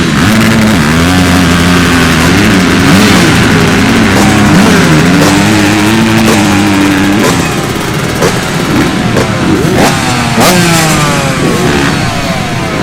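Several motocross motorcycle engines running together at high, wavering revs. After about seven seconds the steady note breaks up into many rising and falling pitches as the bikes accelerate and pass.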